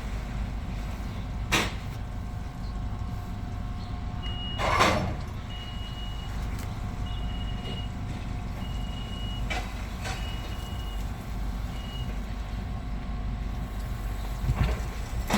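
Vehicle engine idling with a steady low rumble at a scrapyard scale. There is a sharp knock about a second and a half in, then a louder burst of noise. About six high, even-pitched beeps of uneven length follow, like a reversing alarm.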